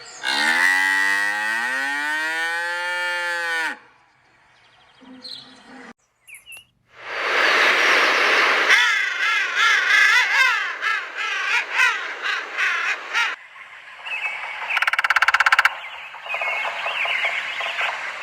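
A run of different animal calls. First comes one long call that rises and then falls in pitch, then a short gap. After that there are chirping, wavering calls, and near the end rapid pulsed calls like croaking.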